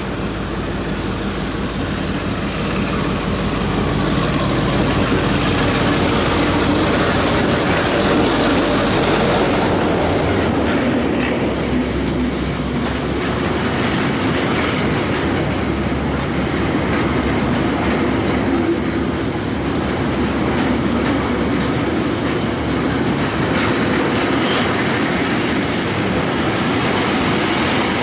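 Passenger train running on the rails: a steady rumble and clatter of carriage wheels on the track, growing louder over the first few seconds.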